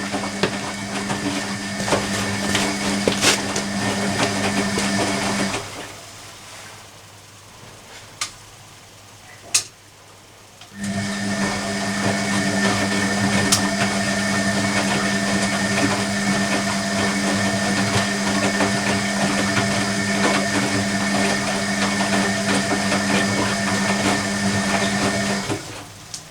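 Hoover Electronic washing machine's motor turning the drum on a cottons 40 wash: it runs for about five seconds, pauses for about five seconds with a couple of clicks, then runs again for about fifteen seconds and stops near the end, the stop-start tumble of the wash stage.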